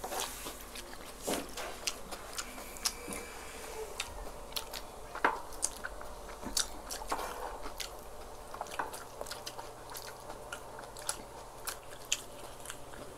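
Close-miked chewing and mouth sounds of people eating rice and siomai, with scattered sharp clicks of spoons and a fork on the wooden board.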